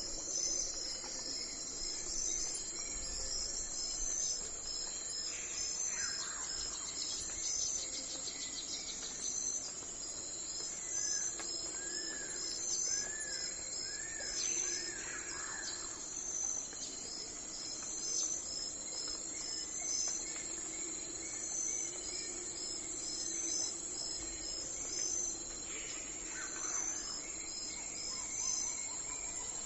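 Early-morning outdoor ambience: crickets or other insects chirping in a steady repeating pulse over a high, constant insect drone. Midway through, a bird calls a run of four short arched notes, and a few quick descending bird calls come and go.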